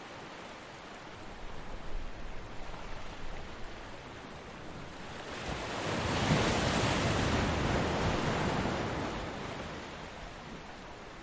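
Ocean waves on a beach: a steady wash of surf, with one wave swelling and crashing about halfway through, then fading as it runs out.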